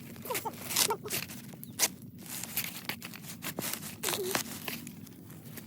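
A series of sharp tearing and crackling noises at irregular intervals, with a few short faint calls among them.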